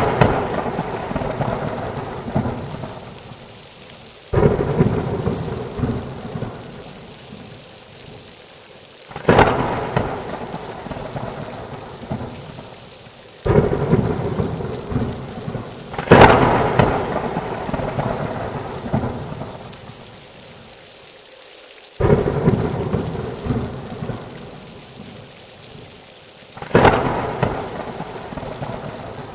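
Thunderstorm: steady rain falling, with about six claps of thunder a few seconds apart. Each starts suddenly, the sharpest as a crack, and rumbles away over a few seconds.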